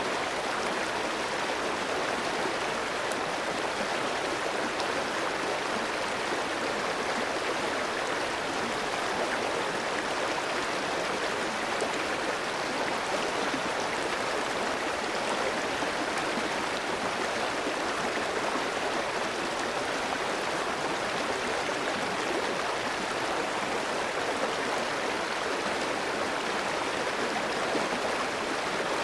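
Clear mountain stream flowing over rocks, a steady rushing and burbling of water.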